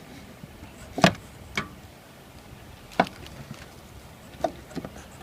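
A few sharp clicks and knocks of small parts being handled against the air conditioner unit: the loudest about a second in, then others near one and a half, three and four and a half seconds.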